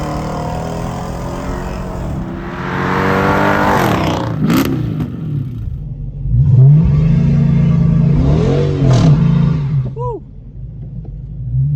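A Mopar muscle car's engine revving and accelerating hard. It climbs in pitch twice and falls off about two seconds before the end.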